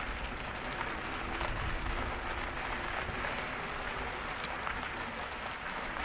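Steady wind rush and rolling tyre noise from an e-bike riding along a trail.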